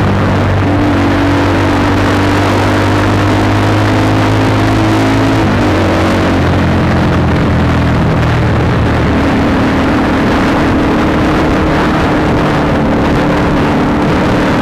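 Honda CBR150R's single-cylinder engine running through an aftermarket Akrapovic exhaust while riding, holding a steady pitch, dipping slightly about five and a half seconds in, then steadying again.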